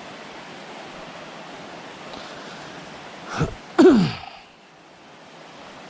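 Steady rushing background noise, then about three seconds in a person makes two short vocal sounds that fall in pitch, the second louder and longer.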